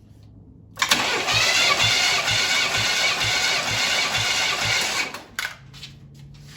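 Starter motor cranking a Pontiac 326 V8 for about four and a half seconds during a compression test, with a low, even beat about twice a second as the cylinders come up on compression; it stops abruptly, followed by a few light clicks.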